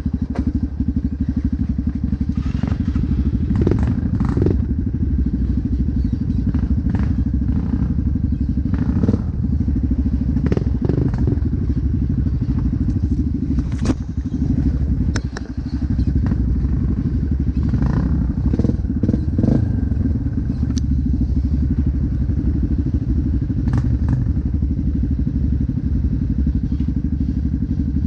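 Motocross dirt bike engine running steadily, with scattered knocks and clatters over it. The engine sound dips briefly about fifteen seconds in.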